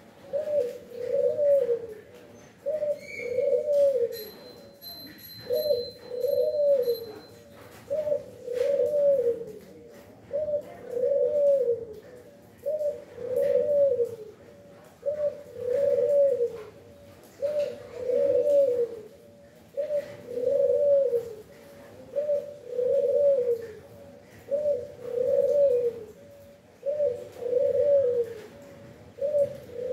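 A dove or pigeon cooing over and over: low, hollow coos in a steady repeating rhythm, a phrase every one to two seconds.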